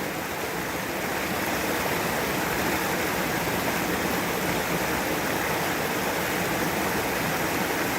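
A stream flowing, a steady, even rush of water with no breaks.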